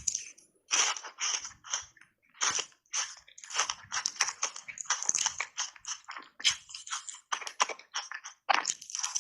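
Button-shaped ice coated in matcha powder being bitten and chewed: rapid, irregular crunches, several a second, broken by a few brief pauses.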